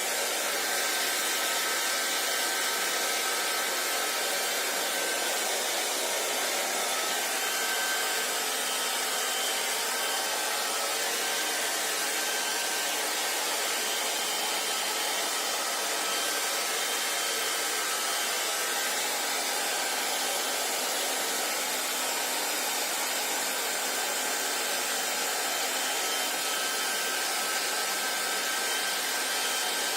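Handheld hair dryer running steadily, a constant airy rush with a faint steady whine from its motor.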